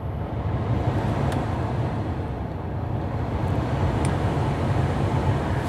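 Truck's climate-control blower fan rushing steadily, turned up about as it begins, over the low hum of the idling engine.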